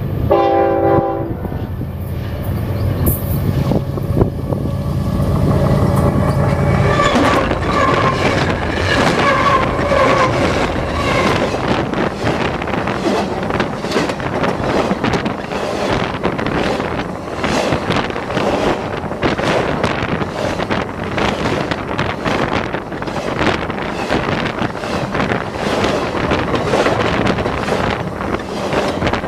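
BNSF freight train's diesel locomotive drones in low as it approaches, its horn sounds about seven seconds in, and then the cars roll overhead with a continuous rapid clatter of wheels on rail joints.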